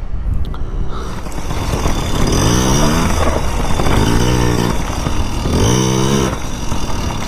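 Motorcycle engine running under way, its pitch rising three times as the throttle is opened, over steady wind and road noise.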